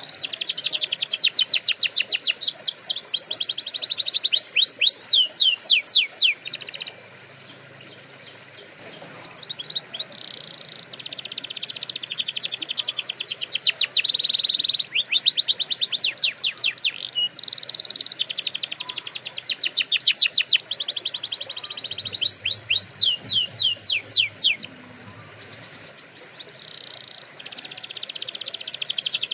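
Domestic canary singing: long rolling trills of fast repeated high notes, changing from one trill to the next, with two brief pauses, about a quarter of the way in and again near the end.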